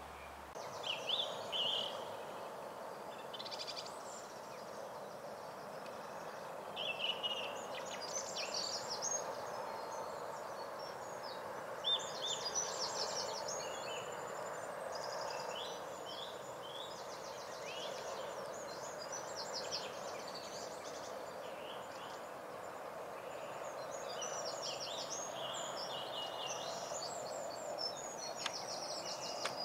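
Songbirds singing, with many short chirps and trills overlapping, over a steady background hum.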